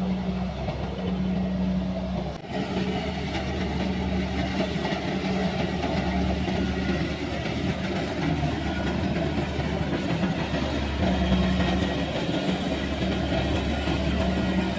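Kubota combine harvester running steadily as it harvests rice: a constant engine drone with a steady low hum.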